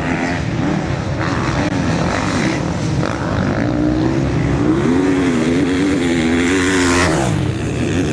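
Motocross bikes racing around a dirt track, their engines revving up and down as the riders work the throttle; the engine note wavers, and one falls in pitch about seven seconds in.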